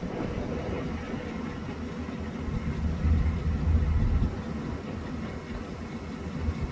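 Low rumble of a vehicle engine running at idle, swelling louder for a couple of seconds around the middle.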